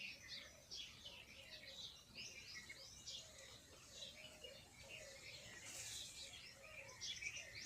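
Faint, continuous chorus of many small birds chirping and twittering, with a brief hiss about six seconds in.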